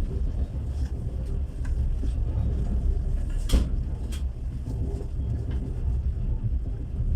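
Passenger sleeping car rumbling steadily as the train runs along the track, with a sharp knock about three and a half seconds in and another soon after.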